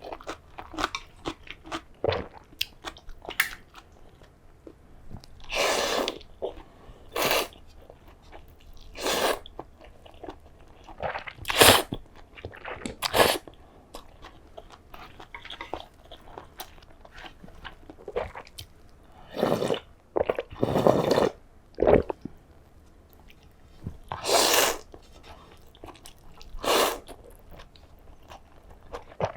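A person eating close to the microphone, with crunching bites and chewing. Louder crunches come every second or two, between quieter mouth sounds.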